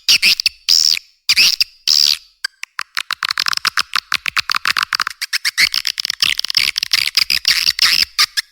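Swiftlet call recording (suara panggil walet), the kind played to lure swiftlets into a nesting house. Three drawn-out chirps in the first two seconds, then a fast run of short twittering chirps, all high-pitched with nothing below a sharp low cutoff.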